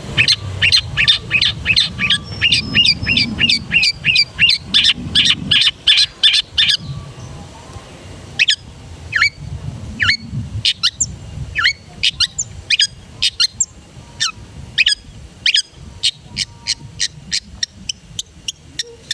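Long-tailed shrike (cendet) singing: a fast run of short, sharp repeated notes, about four a second, then from about seven seconds in, spaced single notes that each sweep quickly downward in pitch.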